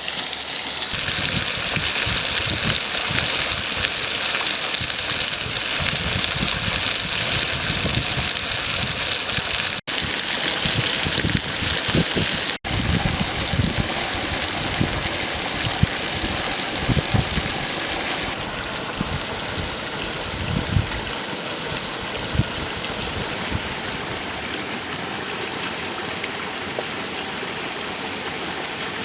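Stream water rushing and splashing steadily, with irregular low rumbling under it. The sound cuts out for an instant twice, about ten and twelve and a half seconds in.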